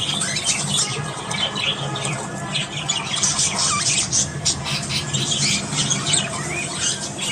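Budgerigars chattering, many short overlapping chirps, squawks and warbles, over a steady low hum.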